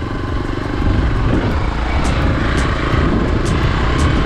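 Hero XPulse motorcycle engine running steadily while riding, with a low, steady rumble and wind buffeting the microphone.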